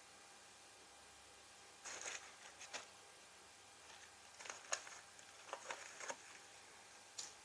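A scattering of short, quiet clicks and rustles, irregular, over a low steady hiss; the sharpest click comes near the middle.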